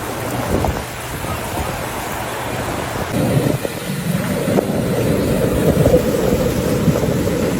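Low, steady rushing noise of flowing water with wind buffeting the microphone, growing louder about three seconds in.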